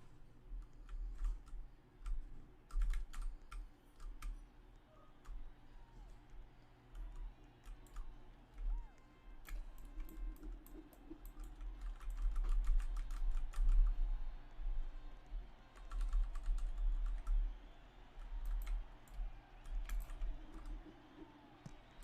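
Irregular clicks and taps, like typing on a keyboard, over a low rumble.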